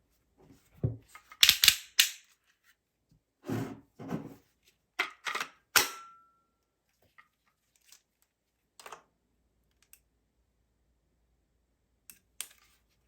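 Irregular sharp clicks and knocks, several in quick succession in the first six seconds and a few fainter ones later, one of them leaving a short ringing tone.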